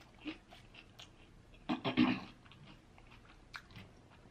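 Quiet close-miked chewing and mouth sounds of a person eating a soft taco with quinoa filling, with scattered small clicks and a short louder burst about two seconds in.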